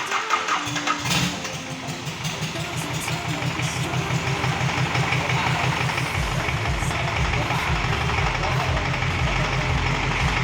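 Rebuilt forklift diesel engine being test-run at idle, an even firing beat that comes in about a second in and grows deeper and heavier about six seconds in.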